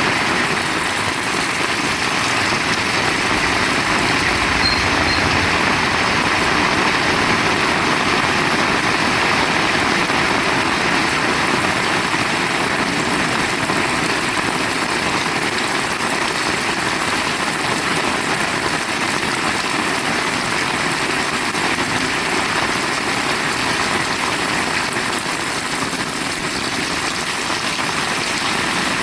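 Heavy rain falling steadily: a loud, even hiss with no let-up.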